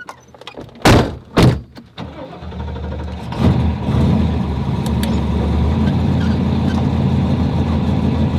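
Two heavy thumps about half a second apart, like vehicle doors shutting, then a truck's engine starts up and runs with a steady low rumble.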